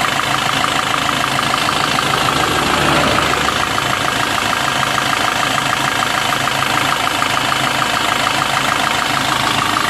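Maruti Suzuki Swift Dzire engine idling steadily, warmed up and running normally after a water pump replacement. A low rumble swells briefly about three seconds in.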